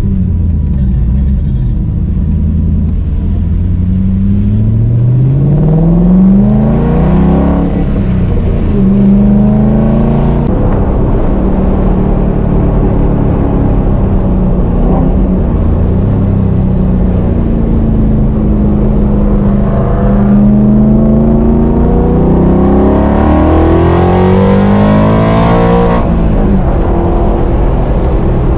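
Ford Coyote V8 of a Factory Five Type 65 Daytona Coupe heard from inside the cabin, accelerating hard with the revs climbing. There is a gear change about seven seconds in, then steadier throttle for a stretch, then another long climb in revs that breaks off sharply near the end.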